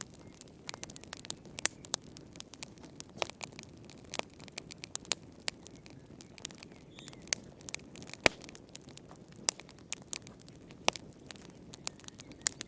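Wood fire crackling in a fireplace: irregular sharp pops and snaps over a soft low rush, with the loudest pop about eight seconds in.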